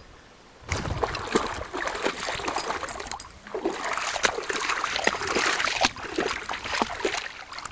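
Water splashing and trickling, starting about a second in, with a short break about halfway through.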